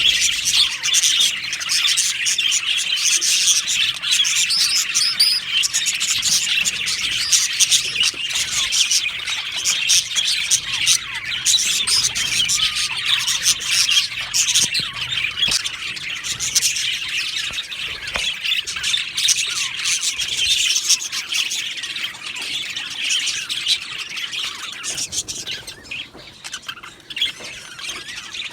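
A colony of budgerigars chirping and chattering together in a dense, continuous din of overlapping calls, thinning out near the end.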